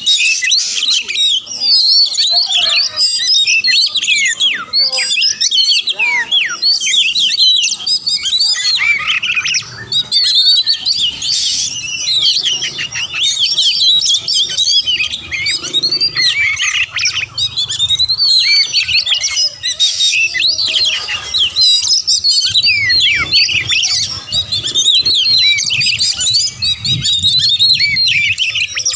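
Oriental magpie-robin singing a fast, unbroken stream of quick high whistles and chirps: a rapid, aggressive song of the kind that sets other magpie-robins answering and fighting.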